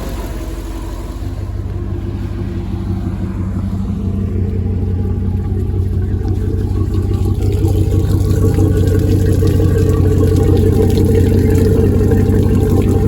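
Heyday WT-1 engine running steadily, growing gradually louder over the first several seconds and then holding even.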